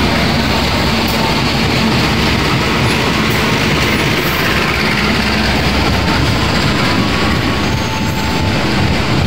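Passenger train passing close by, a diesel locomotive followed by a string of economy coaches, with a steady loud rolling rumble and rattle of steel wheels on the rails.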